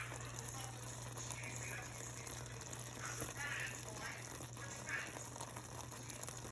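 Chicken and frozen stir-fry vegetables in sauce sizzling steadily in a wok, over a constant low hum.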